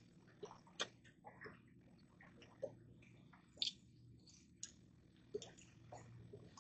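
Faint, irregular ticks and small taps, roughly one or two a second, over a low steady hum.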